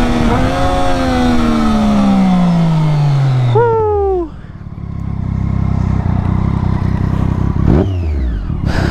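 Triumph Daytona 675R inline-three engine winding down as the bike slows, its revs falling steadily for about three seconds, then a quick throttle blip. It then settles into a low, steady idle, with one short blip of the throttle near the end.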